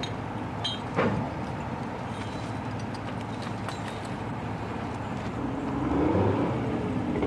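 Pile-driving rig machinery running steadily, with two sharp bangs, one at the very start and one about a second in. A wavering pitched sound comes in and grows louder near the end.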